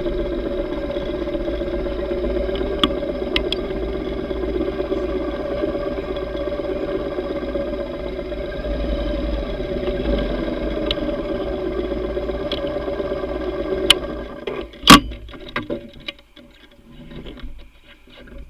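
Yamaha V Star 950's air-cooled V-twin engine running steadily, then shut off about fourteen seconds in, with a sharp click just after it stops.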